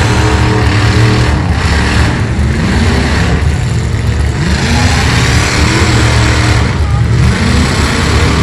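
Demolition derby car engines running loud and revving, their pitch rising and falling again and again.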